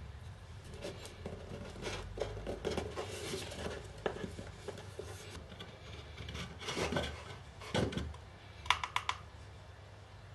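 Hand work on wood: irregular scraping and rubbing with scattered knocks, and a quick run of four sharp taps near the end.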